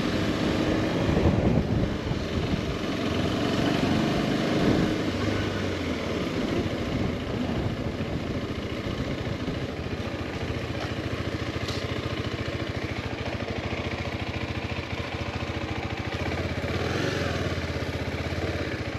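Motorcycle engine running at low riding speed, a little louder in the first few seconds, then steady.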